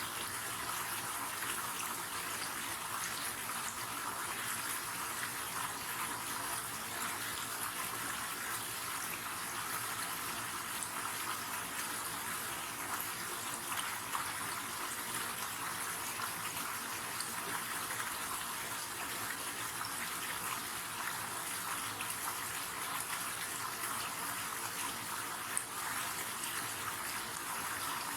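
River water flowing steadily, an even hiss-like rush of running water with no breaks.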